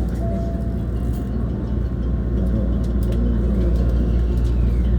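Running noise of a Hankyu 1300-series electric train heard inside the car: a steady low rumble, with a faint whine that rises and then falls a few seconds in.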